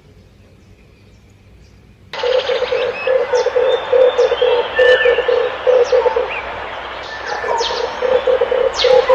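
Red turtle doves cooing: a low, rapidly pulsing rolling coo that starts abruptly about two seconds in and keeps going in repeated phrases, with short higher chirps from other birds over it.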